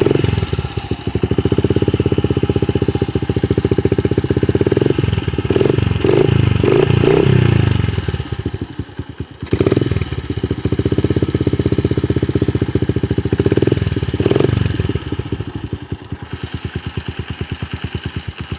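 2003 Honda XR70R's small four-stroke single-cylinder engine running just after a cold start, having sat unused for a year or two. It is blipped with several revs, sags briefly about halfway through, then settles into a quieter, even idle near the end.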